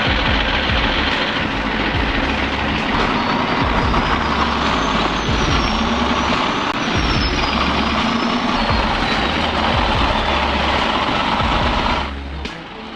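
Heavy diesel machinery running loud and steady, with a faint high whistle wavering in pitch partway through; the noise falls away about twelve seconds in.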